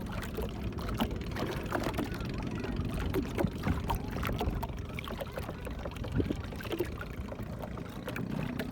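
Ride in a small motorboat: a low steady engine hum under rushing water, with frequent short knocks and a few faint voices.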